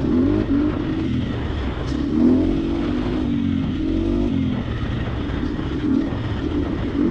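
Triumph TF250X's 249cc single-cylinder four-stroke engine running under the rider, its pitch rising and falling several times as the throttle is worked, held to about half throttle while the new engine is broken in.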